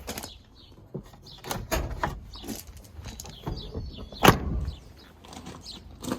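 Scattered knocks and clicks, with one loud bang about four seconds in.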